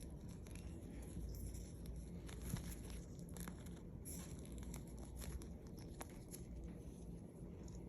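Faint scratching and rustling with many quick, high clicks, from a baby canary stirring.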